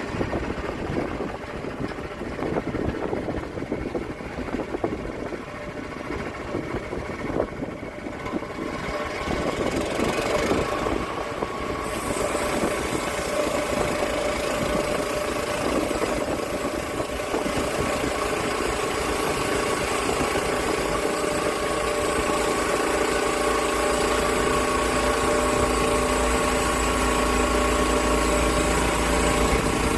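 Small gasoline engine of a log mill running steadily, growing louder and brighter about ten to twelve seconds in, then holding a steady run.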